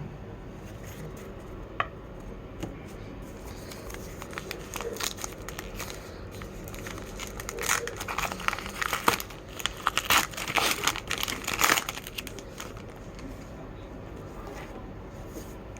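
A trading-card pack's wrapper being crinkled and torn open by hand. There are a few light clicks at first, and a dense run of crinkling in the middle.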